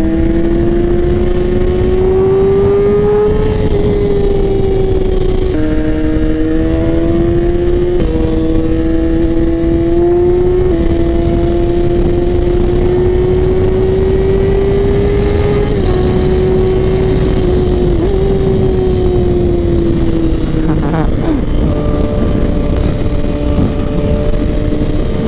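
Yamaha R6 sport bike's inline-four engine pulling at high revs while riding. The pitch climbs slowly and drops suddenly several times as it shifts gear, then falls away near the end as the bike eases off.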